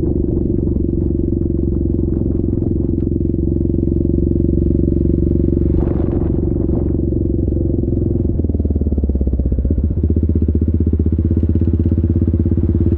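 Yamaha Grizzly 700 ATV's single-cylinder engine running steadily under way. About eight seconds in its note changes, turning deeper and more pulsing, and a brief scraping sound comes about six seconds in.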